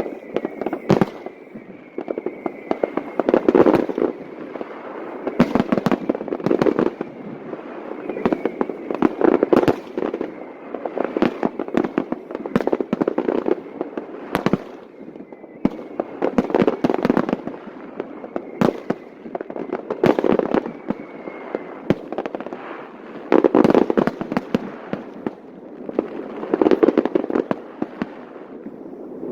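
A fireworks display: volleys of many rapid cracks and bangs that swell in waves about every three seconds, with echoing booms beneath.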